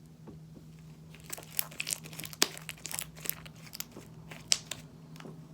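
Slime being squeezed and stretched by hand, with a quick run of sharp clicks and pops starting about a second in.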